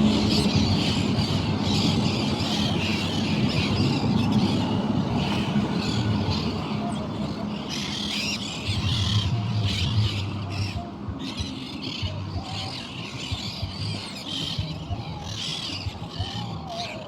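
A flock of birds calling and squawking over one another in a constant chatter, over a low rumble that is loudest at the start and fades.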